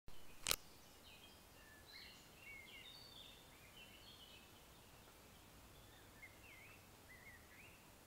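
Songbirds singing faintly in woodland: a string of short whistled chirps and warbling notes that rise and fall. A single sharp click about half a second in.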